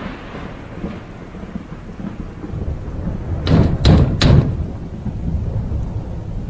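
Thunder: a low rolling rumble, with a quick run of three or four sharp cracks about halfway through.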